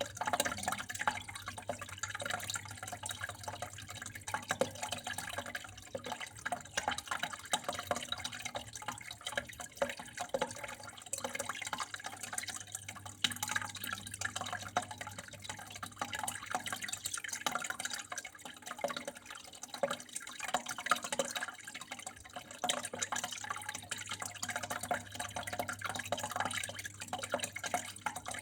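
Running water trickling and dripping steadily, a constant patter of many small drops and splashes.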